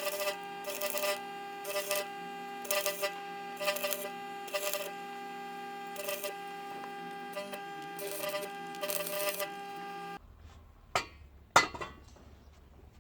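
Welding machine humming steadily, broken about once a second by short bursts of crackling arc noise, as sheet steel is tacked onto the frame. Near the end the sound cuts to a low hum with two sharp clicks.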